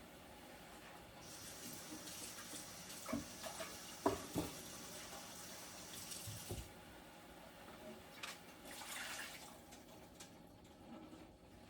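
Water running from a kitchen tap for about five seconds, with a few light knocks of a pot, then a shorter second rush of water.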